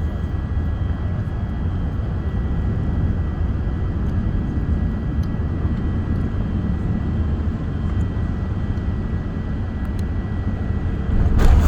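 Steady jet cabin noise inside an Airbus A380 on final approach: engines and airflow running, with a few faint steady whining tones. Near the end the noise suddenly grows louder.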